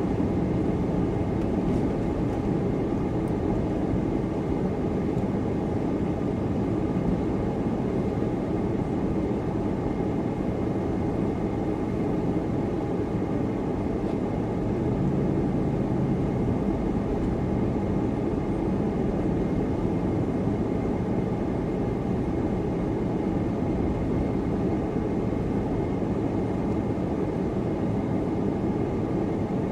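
Car driving at a steady pace: a constant low rumble of engine and tyre noise with no change in speed.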